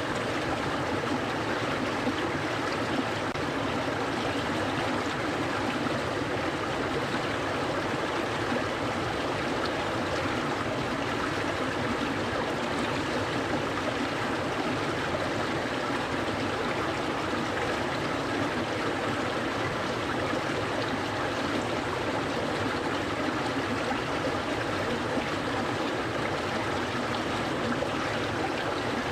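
Clear stream flowing steadily: a continuous, even rush and babble of water with no breaks.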